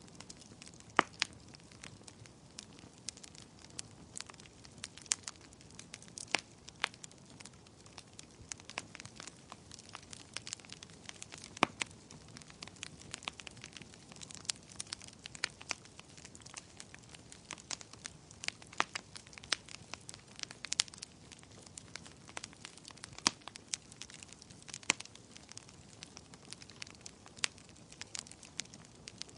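Wood fire crackling in a fireplace: a soft steady hiss with irregular sharp pops and snaps, several a second, a few much louder than the rest.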